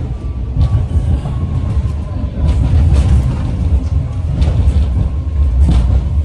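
BART train running on the rails, heard from on board: a steady low rumble with several short clicks from the track, and a faint high whine that falls slightly in pitch over the first two seconds.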